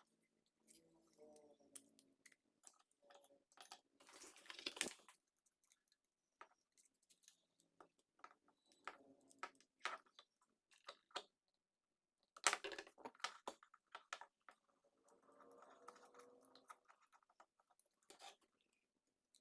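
Faint scattered clicks, taps and scrapes of small parts and hand tools being handled. The longest scraping is about four seconds in, and another burst of clicks comes about twelve seconds in.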